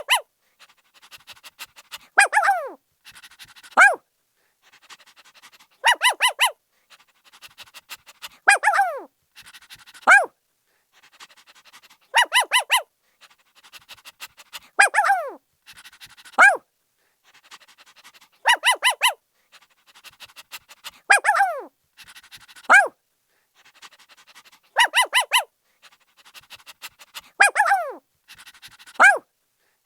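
Puppy barking in quick runs of short, high yips, each run followed by a yelp that falls steeply in pitch. The same pattern repeats about every three seconds, with fainter small sounds between.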